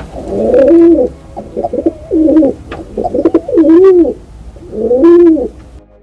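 A pigeon cooing repeatedly: a series of loud, low calls, each rising and falling in pitch, in several groups with short pauses between them.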